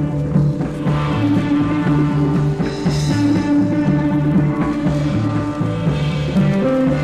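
Psychedelic rock band playing an instrumental passage without vocals, a repeating low bass figure under held guitar notes.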